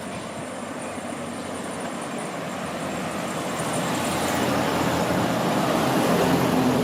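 A motor vehicle approaching and passing on the street, its engine and tyre noise growing steadily louder to a peak near the end, then starting to fade.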